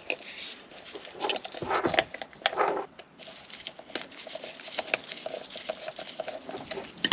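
Light clicks and rustling from hands working a rubber hose and a Jubilee worm-drive clamp onto a pipe, with a few louder scuffs early on.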